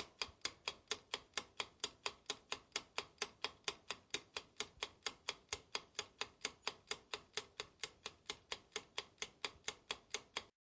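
Clock ticking at about four ticks a second, fast and perfectly even, like a countdown-timer sound effect; it starts and stops abruptly.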